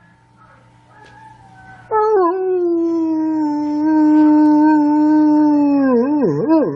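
A dog howling: after a quiet start, one long held note begins about two seconds in and lasts about four seconds, then breaks into a quick wavering, yodel-like howl near the end.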